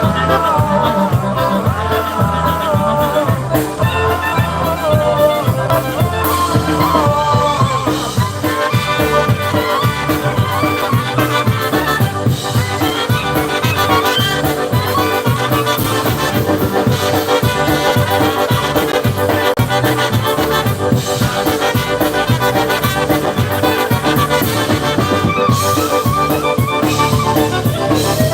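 Live polka band playing a polka: accordion and brass melody lines over a steady bass beat.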